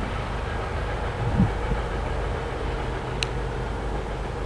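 Low, steady rumble of a freight train, with a single thump about a second and a half in and a sharp click later on.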